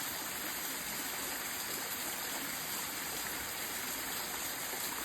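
Small waterfall running steadily: an even, unbroken rush of falling water.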